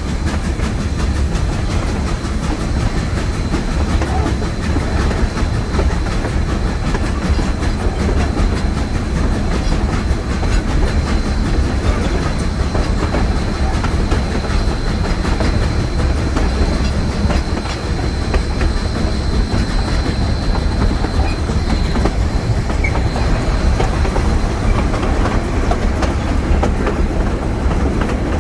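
Steam train rolling along the track: a steady, loud rumble with rapid clicking of the wheels over the rails. A faint, thin high tone runs through it and stops about two-thirds of the way in.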